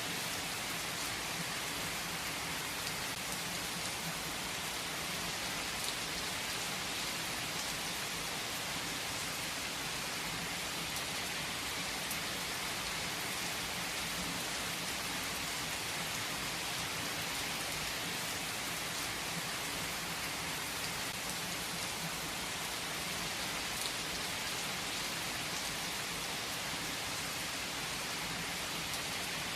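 Steady rain falling and pattering on surfaces, an even hiss with a few faint drop ticks.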